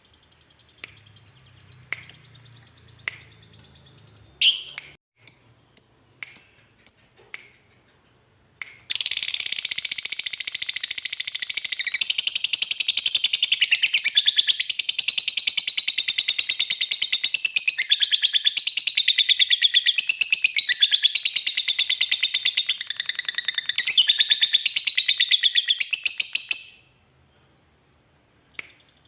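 Lovebird calling: a handful of short, sharp high chirps, then a long, rapid, chattering trill (the 'ngekek') that starts about nine seconds in, runs for about eighteen seconds and stops abruptly.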